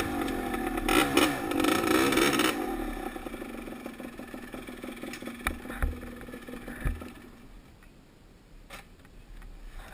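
Dirt bike engine revving up and down, then dying away over several seconds, with a few sharp knocks as it fades.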